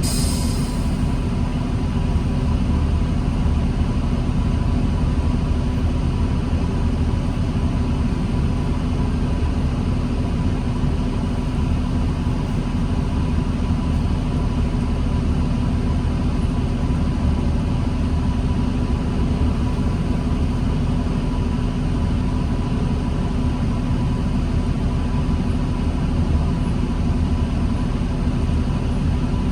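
2009 New Flyer D40LFR diesel transit bus running steadily in slow traffic, with a constant low hum and a faint steady whine. A brief hiss in the first second.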